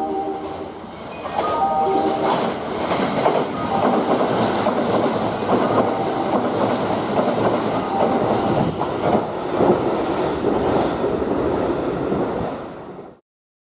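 Kintetsu 50000 series Shimakaze limited express passing through the station at speed without stopping: a continuous rush of wheel and rail noise with clickety-clack over the rail joints. The noise lasts about eleven seconds and cuts off suddenly near the end.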